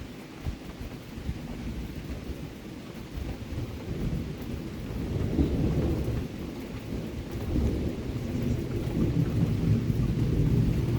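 Steady rain with a low rumble of thunder that builds from about four seconds in and grows louder toward the end.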